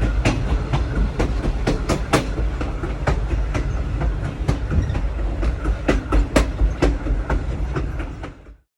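Road noise inside the cab of a 2022 Ford F-250 pickup on the move: a steady low rumble with irregular sharp clicks and knocks. It cuts off abruptly near the end.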